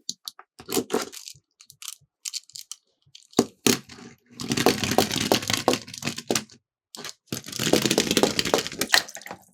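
Small die-cast toy cars clattering down a plastic track. There are scattered sharp clicks at first, then two rattling runs of about two seconds each, with clicks running through them.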